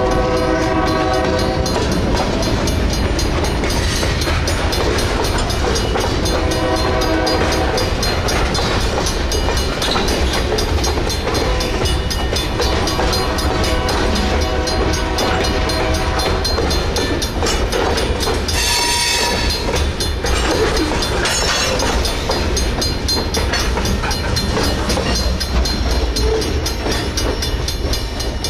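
Freight train cars, mostly covered hoppers, rolling past close by: a steady rumble and rapid clatter of steel wheels on the rail. Several brief pitched squeals cut through it, the shrillest about two-thirds of the way through.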